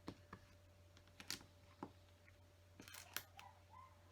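Faint, scattered clicks and taps of small plastic LEGO pieces being handled and pressed into place.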